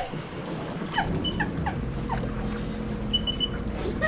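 Jet ski engine idling steadily, with several short falling chirps about a second in and three quick high pips near the end.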